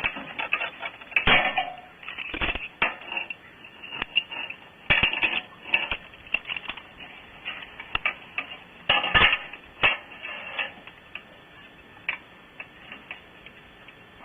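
Irregular clunks, clicks and scrapes of hands and gear handling the camera close to its microphone, in scattered clusters with louder knocks about 1, 2.5, 5 and 9 seconds in.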